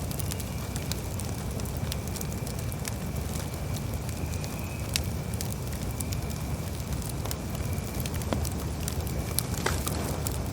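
Campfire crackling: irregular sharp pops and snaps of burning wood over a steady low rumble of the flames, with a faint steady high tone underneath.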